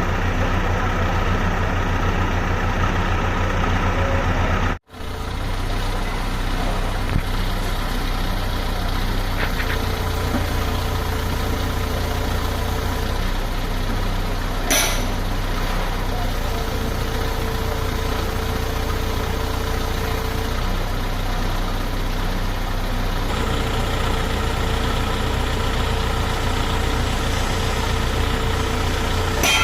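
Excavator's diesel engine running steadily, with a brief cut about five seconds in. A steady mid-pitched hum comes and goes several times over the engine, and there is one short click near the middle.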